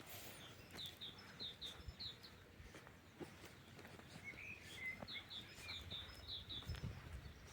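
Songbirds singing faintly: twice, a quick run of short repeated high notes, with a few lower chirps between the runs. A brief low rumble comes near the end.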